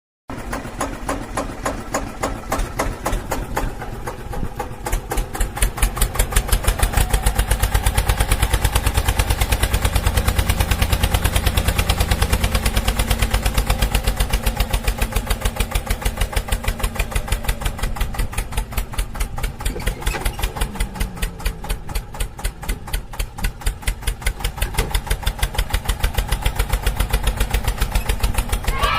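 Tractor engine chugging steadily in a fast, even beat, growing louder about six seconds in and then holding.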